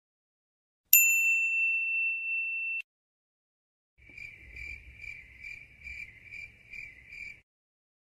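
A ding sound effect: a single bright bell-like strike about a second in that rings for about two seconds and is cut off. After a pause comes a second effect, a high tone pulsing about two and a half times a second for a few seconds.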